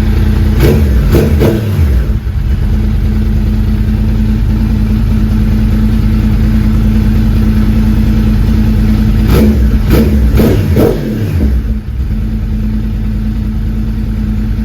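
Yamaha sportbike inline-four engine idling, blipped several times in quick revs twice: once about a second in and again about ten seconds in. The sound cuts off abruptly near the end.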